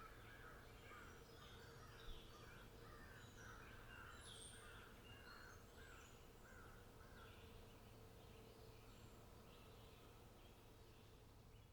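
Faint bird calls: a quick series of short repeated calls that thins out about two-thirds of the way through, with scattered higher chirps over a low steady hum.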